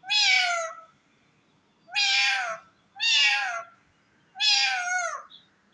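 Pet parakeet giving four loud, drawn-out calls in a row, each one sliding slightly down in pitch, with short gaps between.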